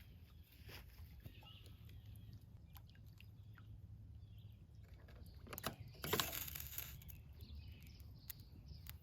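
Quiet outdoor ambience: a few short bird chirps over a steady low rumble, with scattered small clicks and a brief loud rustling burst about six seconds in.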